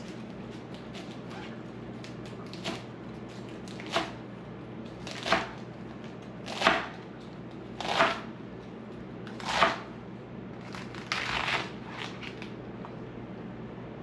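Salad spinner spinning washed lettuce: a rushing stroke repeats about every second and a half, seven times, loudest in the middle, over a steady low hum.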